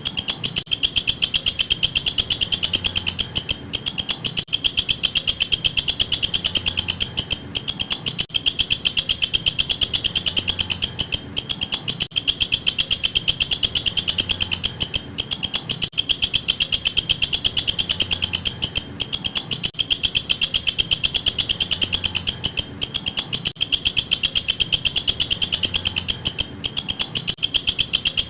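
Walang kecek, an Indonesian katydid, calling: a loud, continuous, high-pitched trill of very rapid pulses, with brief breaks every few seconds.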